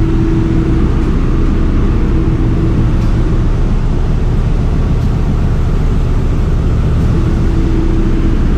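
Loud, steady drone of a ship's engine room machinery running, a deep rumble with a steady hum tone that fades out and back in.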